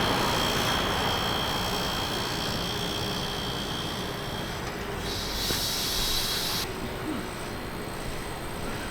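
Steady background machine rumble, then a short burst of sharp hissing, pressurised gas escaping, lasting about a second and a half from about five seconds in.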